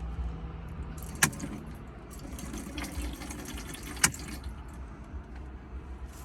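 Two sharp clicks or knocks about three seconds apart, with light clinking between them, over a steady low rumble.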